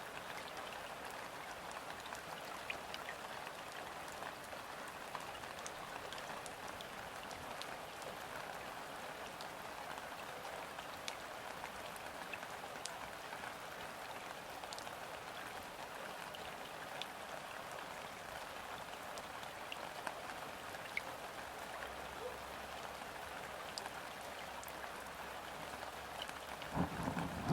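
Gentle rain falling on a river's surface: a steady patter with scattered individual drop ticks. Right at the end a low rumble swells in.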